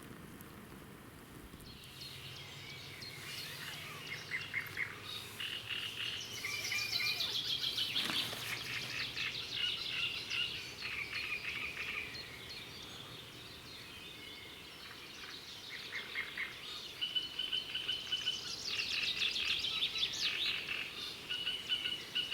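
Songbirds singing: overlapping chirps and trills, with runs of notes falling in pitch. The singing is busiest in two spells, one a few seconds in and one in the second half.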